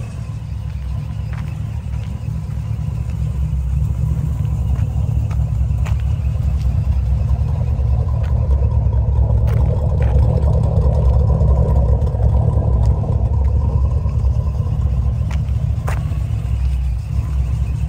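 1973 Chevrolet Corvette's V8 engine running with a steady low rumble, which grows a little louder around the middle. A few light clicks sound over it.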